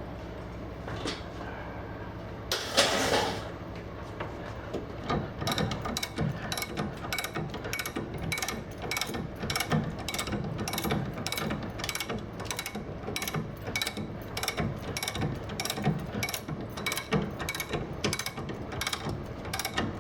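Repeated sharp mechanical clicking, roughly two to three clicks a second, that starts about five seconds in after a short noisy rush near the start.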